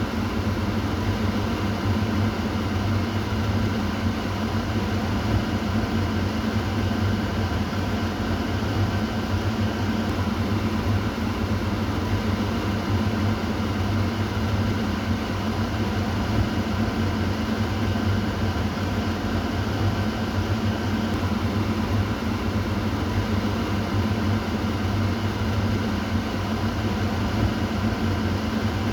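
Kitchen exhaust fan running steadily: an even rush of air over a low, constant motor hum.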